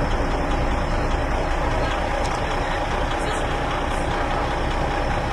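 A large vehicle engine idling steadily, with a constant whine sitting over its running.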